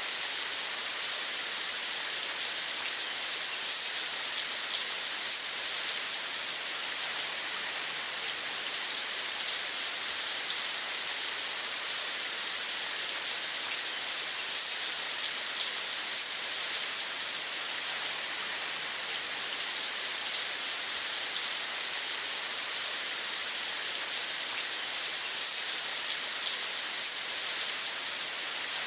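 Steady rain falling, an even hiss of many small drops that does not let up or change.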